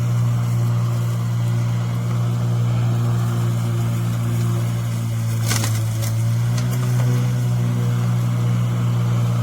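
Greenworks 40V brushless cordless push mower's electric motor and blade running with a steady hum while cutting tall grass. A brief rustle about five and a half seconds in, after which the hum rises slightly in pitch.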